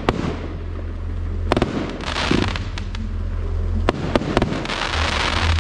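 Fireworks display: aerial shells bursting with sharp bangs, one at the start, one about a second and a half in, and three in quick succession past the middle. Between them come swells of hissing crackle from the stars and fountains.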